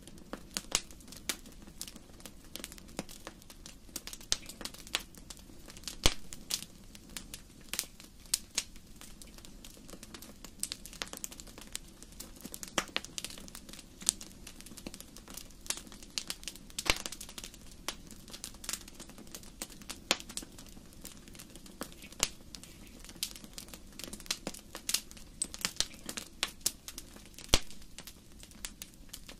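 Wood fire in a fireplace crackling, with many sharp, irregular pops and snaps over a steady low rumble of the burning.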